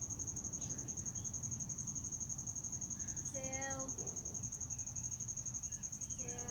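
Insects chirring: a high, steady trill of fast, even pulses over a low background rumble. A short pitched call breaks in about halfway through.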